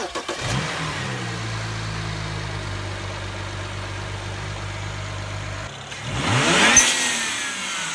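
BMW 335i's turbocharged 3.0-litre inline-six just started, flaring briefly and settling into a steady idle. About six seconds in it is revved once, the pitch rising and falling back, with a brief hiss at the top of the rev.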